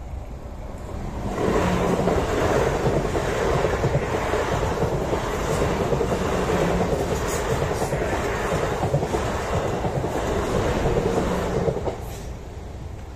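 South Western Railway passenger train passing close by at speed, with steady running noise and clicking wheels. The noise swells about a second in and cuts off sharply near the end as the last carriage clears the crossing.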